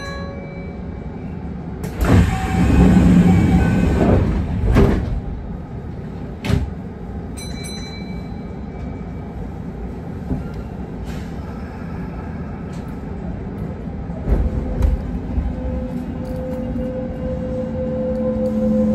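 Kintetsu 1620 series electric train at a station: its sliding doors close with a loud rush of air a couple of seconds in. A few knocks follow, and the train starts away with the whine of its motors rising near the end.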